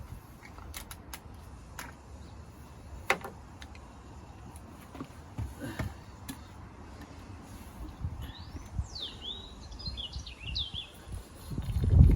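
A bird sings a short run of quick chirps about two-thirds of the way in, over a steady low rumble and a few scattered light clicks. A loud low rumble surges right at the end.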